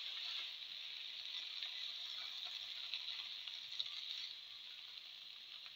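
Green and red spinach leaves and tomato pieces sizzling in hot oil in a pan as they are stirred with a spatula, with a couple of light clicks of the spatula against the pan. The sizzle eases a little after about four seconds.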